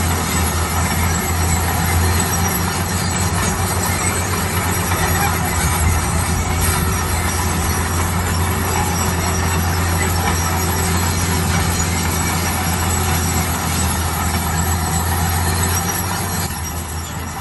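Heavy road construction machine running steadily, its diesel engine giving a deep constant hum under a broad mechanical noise; it drops a little in loudness near the end.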